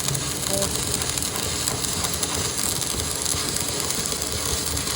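Steady metalworking machine noise: a dense, even hiss with fine rapid ticking.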